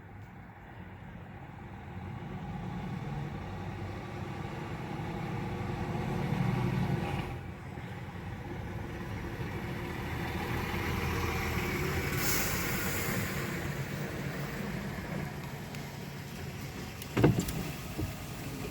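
Trucks driving past, their engine drone swelling twice, with a hiss in the middle of the second swell and a sharp knock near the end.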